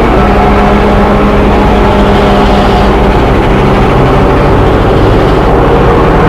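Train running, a loud steady rumble with humming engine tones that shift in pitch a few times.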